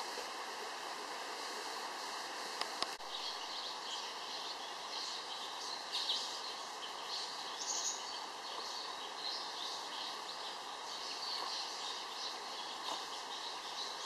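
Forest ambience: birds chirping in many short, irregular calls over a steady background hiss, busier from about four seconds in. Two sharp clicks sound just before the chirping picks up.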